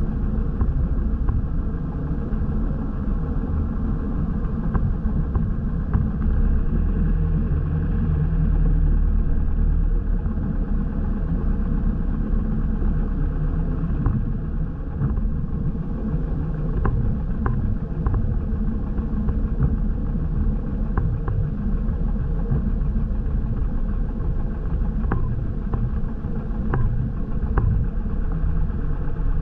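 Small airplane's piston engine running steadily, a continuous low rumble with a few faint ticks in the second half.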